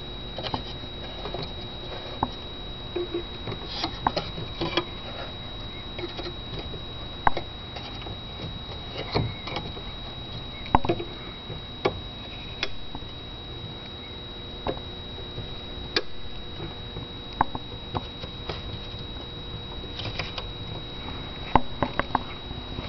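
Irregular light clicks and taps, a few louder knocks among them, over a steady faint high whine and low hum.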